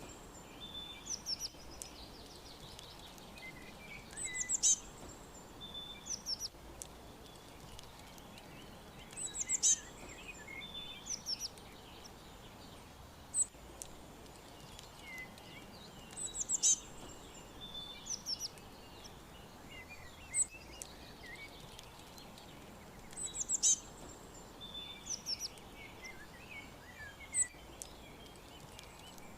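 Songbirds chirping and trilling: short clusters of high, quick chirps recur every few seconds, with softer calls in between, over a steady faint hiss.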